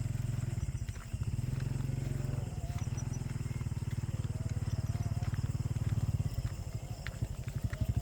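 A small engine running with a low, throbbing rumble of rapid, even pulses, dipping briefly about a second in and again near the end.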